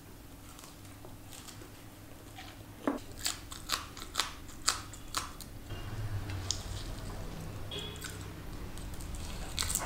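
A person biting and chewing crunchy food close to the microphone: a quick run of sharp crunches in the middle, then softer, wetter chewing.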